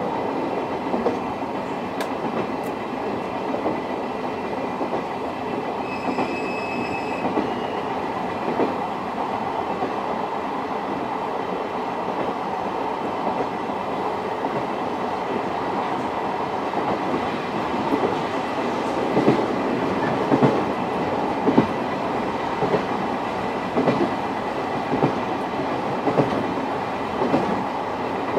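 Inside a JNR old-type passenger coach (Suhafu 42) running behind an electric locomotive: a steady rumble of wheels and bogies on the rail, with rail-joint clickety-clack. The clacks come sharper, about once a second, in the second half. A brief high tone is heard about six seconds in.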